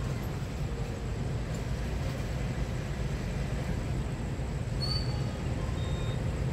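Steady low rumble of an approaching train at a closed level crossing. A short high squeak comes about five seconds in, with a fainter one just after.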